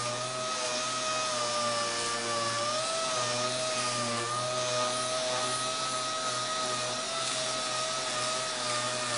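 A SurfPrep/Air Vantage 6-inch air-powered orbital sander with a 100-grit foam-backed abrasive disc, sanding steel. It gives a steady high whine that wavers slightly in pitch as the load on the pad changes.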